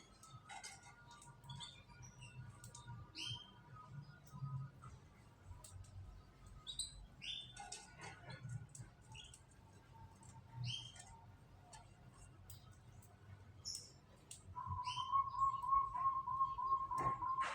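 Canaries chirping with short, high calls scattered throughout; near the end one bird sings a loud, rapidly pulsing trill on a steady pitch for about three seconds.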